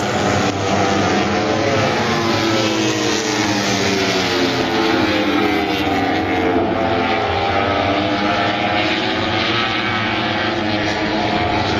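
MotoGP racing motorcycles' engines at full speed on track: several bikes heard together, their high engine notes rising and falling with gear changes and as they pass.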